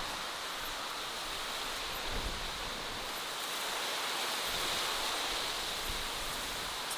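Steady outdoor ambience: an even rushing hiss, like distant running water or wind, with no distinct calls and a few faint high ticks.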